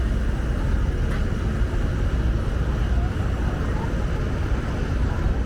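City street ambience: a steady, low rumble of traffic.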